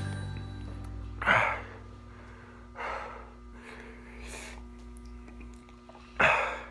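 A person gasping and breathing hard through the mouth from the heat of a freshly eaten jalapeño pepper: four noisy breaths, the loudest about a second in and near the end.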